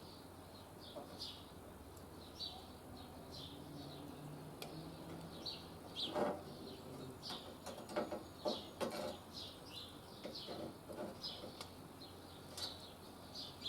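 Small birds chirping again and again, with a few faint knocks in between.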